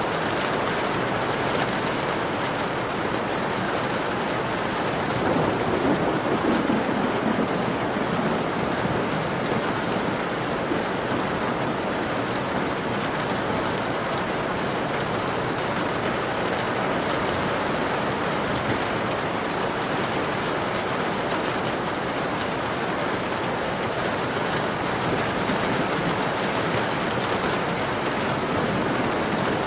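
Steady heavy rain pattering against a window pane, with a brief low swell about five seconds in.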